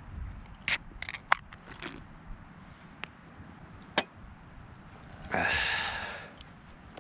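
Utensils clinking and scraping against the pot and bowls as hotpot is served and eaten: a quick run of sharp clicks in the first two seconds and another about four seconds in. About five seconds in comes a one-second rushing noise.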